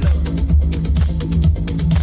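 Electronic dance music with a heavy bass line and a fast, steady beat, played loud through a homemade speaker box.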